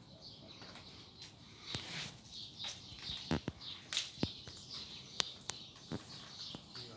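Small birds chirping and twittering throughout, with a scattering of sharp clicks and snaps, the loudest from about halfway through.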